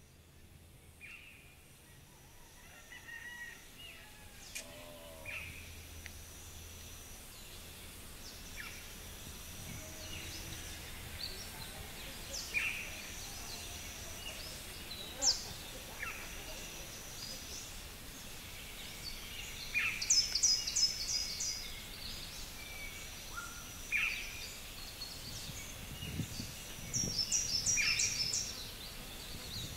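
Birds calling: scattered short chirps, a high thin note repeating every couple of seconds, and two bursts of rapid high chirping, about twenty seconds in and near the end, which are the loudest.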